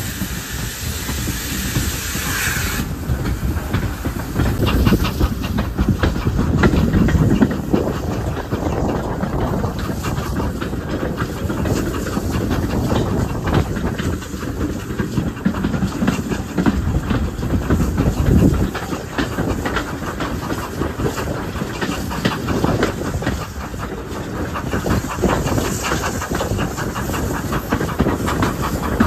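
Pannier tank steam locomotive at work. A loud hiss of steam cuts off abruptly about three seconds in. After that the engine rumbles on, with its wheels clattering over the rail joints.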